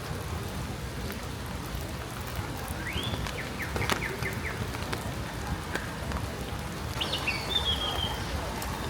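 Steady rain falling. A bird calls twice over it: a rising note and a quick run of short notes about three seconds in, and a higher call about seven seconds in. There is a sharp tick about four seconds in.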